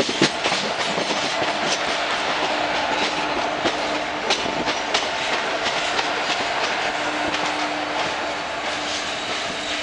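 Train wheels running on rails at close range: a steady rumble with irregular clicks over the rail joints, while a freight train of WAG-5 electric locomotives and covered goods wagons goes by alongside. A faint steady hum comes and goes.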